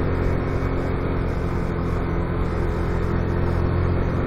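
Motorcycle engine running at a steady cruising speed, with an even rush of road and wind noise.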